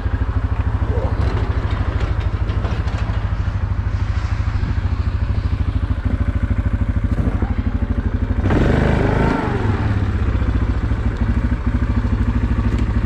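A utility ATV or side-by-side engine idling with an even pulsing beat. About eight and a half seconds in there is a brief louder, rougher burst before it settles back to idle.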